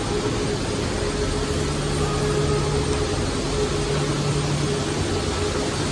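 Steady drone of a jet airliner's engines running on the apron: a constant rushing noise with an unchanging hum underneath.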